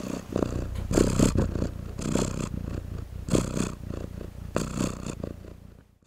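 Domestic cat purring close up, the purr swelling louder about once a second with each breath and fading away near the end.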